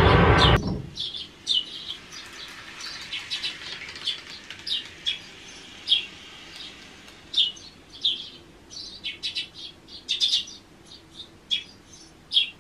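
Small birds chirping: many short, irregular high chirps, some in quick clusters, over a faint steady background. Music cuts off about half a second in.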